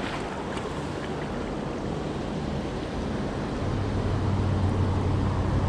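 Creek water rushing over rocks, a steady hiss. A low rumble joins in about three and a half seconds in and the sound grows a little louder.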